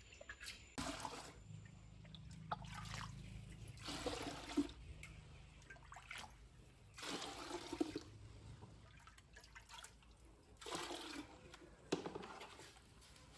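Water splashing or pouring in several short bursts, about five times, over a faint low hum.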